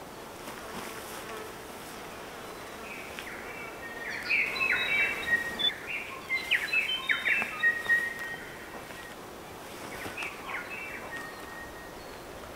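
A songbird singing a varied run of short whistled and chirping notes with quick pitch sweeps, lasting about four seconds, then a shorter, fainter phrase a couple of seconds later, over a steady outdoor hiss.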